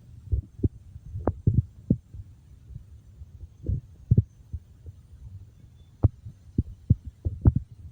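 Irregular low thuds and bumps at uneven spacing, with a few sharper knocks among them.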